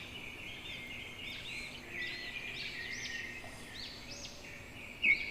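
Small songbirds chirping: many short, high chirps overlapping, with a louder run of quick repeated chirps near the end.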